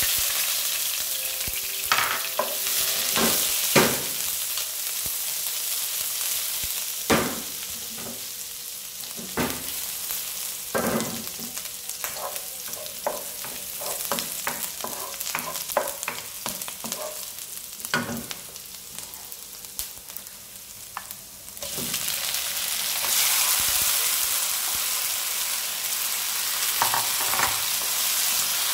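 Chopped onion dropped into hot oil in a nonstick wok, sizzling loudly and easing off, with the wooden spatula scraping and tapping the pan as it is stirred. About 21 seconds in the sizzling surges again as sliced tomatoes go into the oil.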